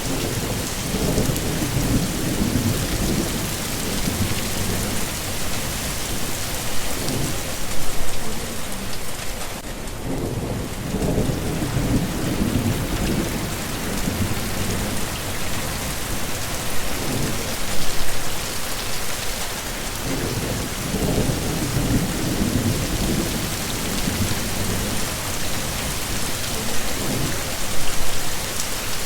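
Heavy rain falling steadily, with low rolling thunder rumbles that swell and fade again and again, and louder surges about every ten seconds.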